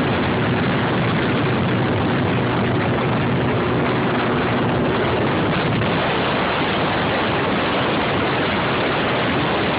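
Steady loud rush of wind and road noise on the microphone of a moving bicycle, with a low engine hum from passing traffic that fades out about halfway.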